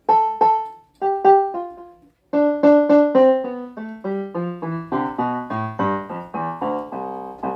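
Wolf electronic keyboard sounding in a piano voice: a few separate notes, then from about two seconds in a quick run of notes stepping down the keyboard, overlapping more near the end. The keys are being tried one after another to find the octaves that are failing.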